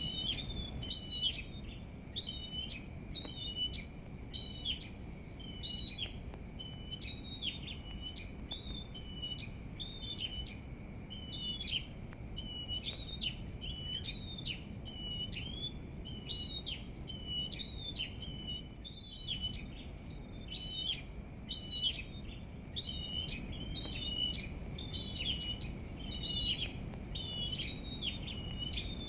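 A small songbird singing short, high chirping phrases over and over, about one a second, over a low steady background rumble.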